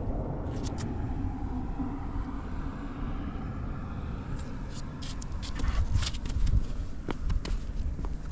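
Suzuki Street Magic 50's two-stroke single-cylinder engine running, which the seller calls free of abnormal noise. Sharp clicks and knocks come in through the second half.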